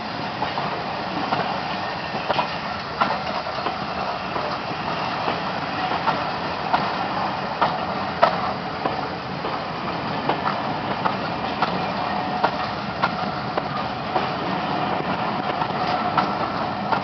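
Railway passenger coaches rolling past close by: a steady rumble of wheels on the rails, with irregular sharp clicks and knocks from the wheels and running gear.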